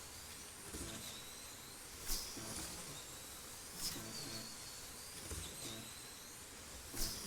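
1/32 scale slot cars racing on a commercial track: a steady hiss and high electric-motor whine, with a car whooshing past close by three times, about two seconds apart.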